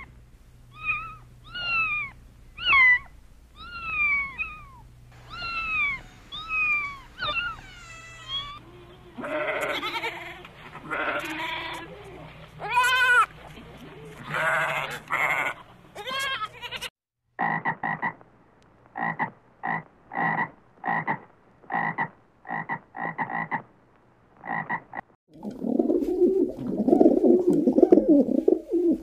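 Kittens meowing, about ten falling meows one after another; then a sheep bleating with a quavering voice; then a run of short clipped animal calls, about two a second; and near the end pigeons cooing.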